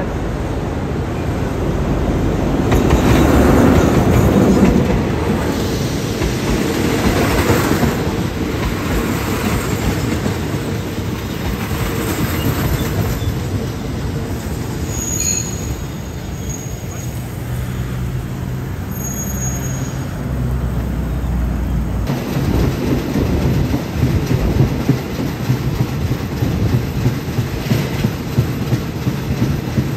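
Ordinary passenger train running on the track with a steady rumble that swells loudest a few seconds in. Brief high wheel squeals come around the middle, and near the end the wheels clatter rhythmically over the rail joints.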